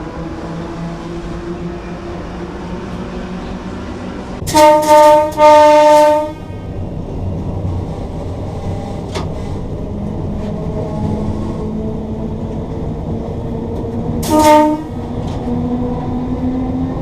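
Horn of a Sydney Trains red set electric train sounding from the cab: two loud blasts of about a second each, back to back, about four and a half seconds in, then one short blast later on. Under it the train runs with a steady cab rumble and a hum that slowly rises in pitch.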